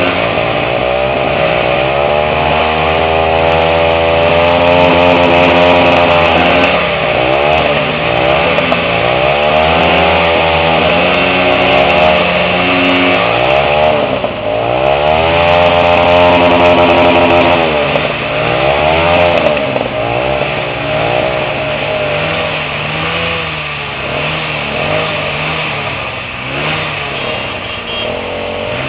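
Small motorcycle engines running and revving: the pitch climbs and holds, drops back, and climbs again several times.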